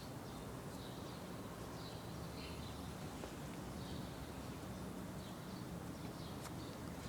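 Faint, short, high chirps from a small bird, recurring every second or so over steady background noise, with a single light click near the end.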